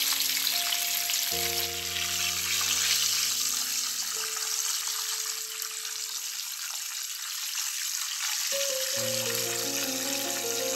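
Breaded chicken fillets frying in hot oil in a pan, a steady sizzle, under background music that drops out for about four seconds midway and then comes back.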